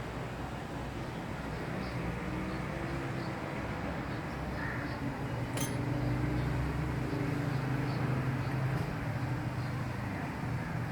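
Steady outdoor background hum of running engines, with one sharp click about halfway through.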